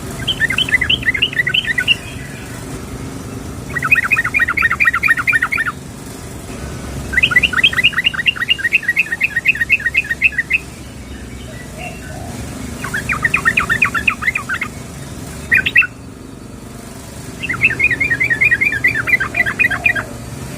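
Yellow-vented bulbul (trucukan) calling: runs of rapid chirps, about six notes a second, each run lasting two to three seconds with short pauses between. The uploader presents it as a female calling to a male.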